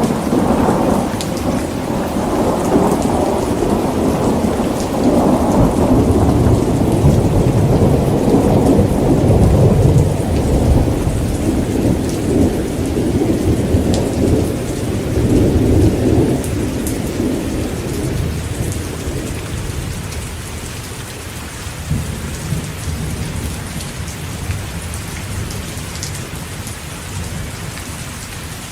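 Heavy rain falling steadily with a long, rolling rumble of thunder. The thunder builds through the first half, then dies away over the second half, leaving the rain.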